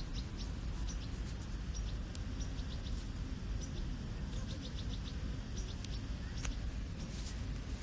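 Small birds chirping in quick runs of short, high notes, over a steady low rumble.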